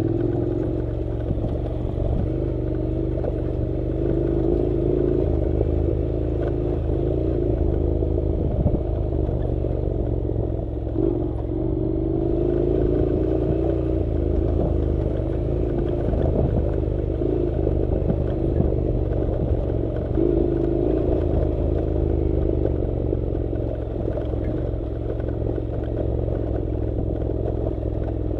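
Honda NC700's parallel-twin engine running at low, gently varying revs on a dirt road, with clattering knocks from the bike over rough, stony ground.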